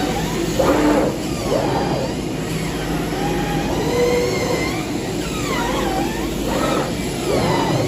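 CNC fabric cutting machine running, its drive motors whining and sweeping down and up in pitch every second or two as the cutting head speeds up and slows, over a steady low hum.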